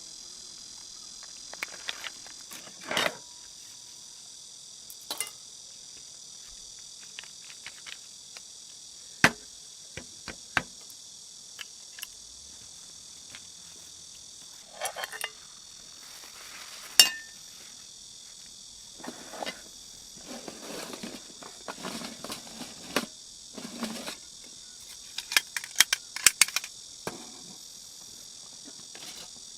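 Steady chorus of crickets chirring in high, even tones, with scattered sharp clicks, knocks and brief rustles of handling over it.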